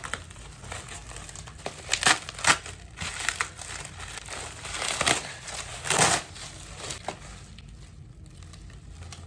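Packaging crinkling and tearing in irregular bursts as an album is unwrapped and opened, loudest about two and six seconds in.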